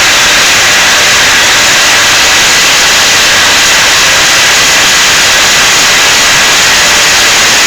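Chevrolet Monza engine running, heard as a loud, steady hissing din. The owner suspects the strange noise comes from a hydraulic lifter or from piston slap.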